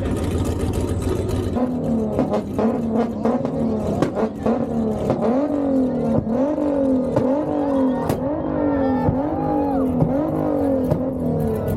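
Car engine revved hard in quick repeated blips, its pitch climbing and dropping about twice a second, with sharp pops and cracks from the exhaust, as when a tuned car shows off its two-step rev limiter.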